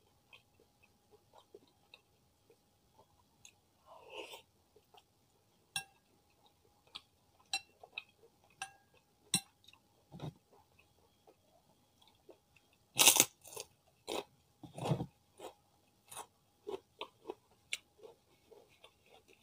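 Close-up chewing and biting with crisp crunches of kerupuk crackers eaten with chicken porridge. Scattered soft clicks throughout, and the loudest crunches come about thirteen and fifteen seconds in.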